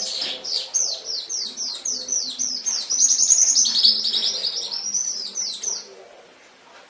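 Domestic canary singing: a fast string of high, downward-sweeping whistled notes that runs into a rapid trill in the middle, the song stopping about six seconds in.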